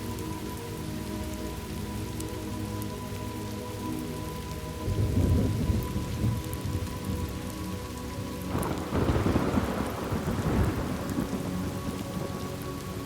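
Thunderstorm: steady rain with rolling thunder. One rumble comes about five seconds in, and a longer, louder one runs from about eight and a half to eleven seconds.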